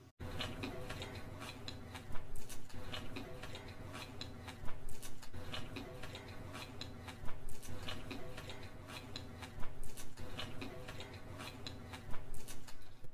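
Close-miked eating of chow mein noodles: a fast run of wet mouth clicks and smacks from chewing, with a louder smack about every two to three seconds.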